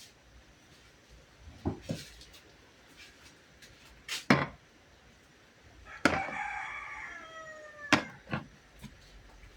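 A rooster crows once, a drawn-out call about two seconds long whose pitch falls away at the end. Several sharp knocks and clatters of objects being handled come before and after it.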